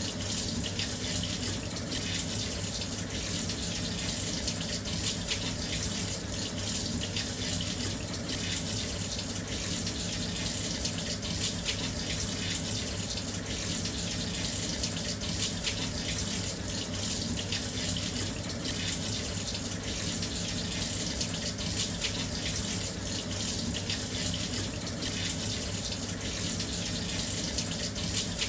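Washing machine filling with water: a steady, continuous rush of water pouring into the drum, with a low steady hum beneath it.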